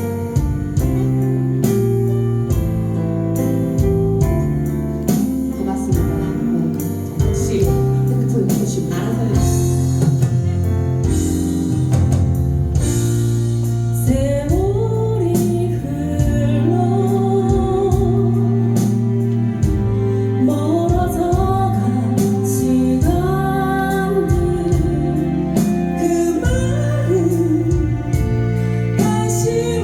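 Live band music: an instrumental passage with guitar over a steady beat, and a singer's voice coming in about halfway through with a wavering, held melody.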